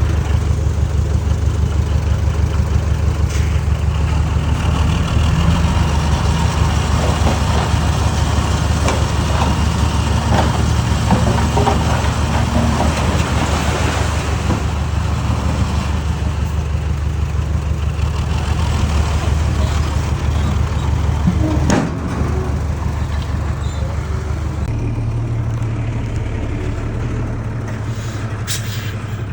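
Heavy diesel engine of earthmoving machinery running steadily with a deep rumble. About three-quarters of the way through there is a sharp click, then the engine note changes and settles a little quieter.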